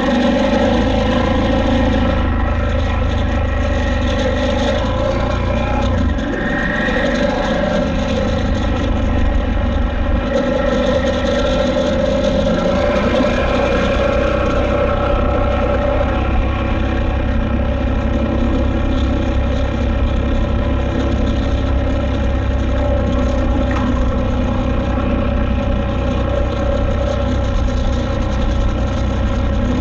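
KTM 890 Adventure R's parallel-twin engine running while ridden, its pitch shifting up and down a few times with the throttle.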